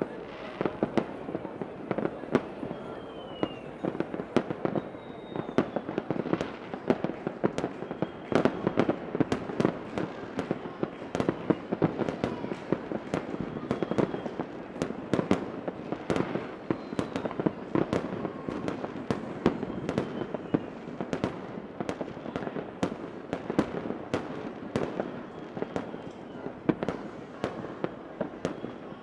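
Fireworks going off in a steady barrage of bangs and crackles, several a second, with a faint whistle now and then.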